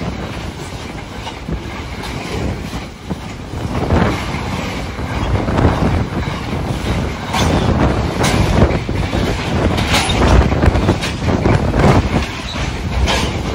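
A train passing along the line, its wheels clattering on the rails with irregular sharper knocks.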